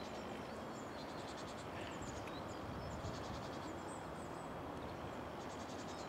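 Faint woodland ambience: a steady hiss of outdoor noise with distant small birds chirping now and then, and a high, fast trill near the start and again near the end.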